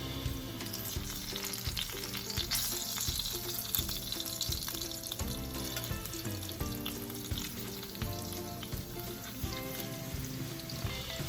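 Thin slices of sweet-cured pork tocino sizzling as they fry in a pan, with scattered sharp pops and clicks.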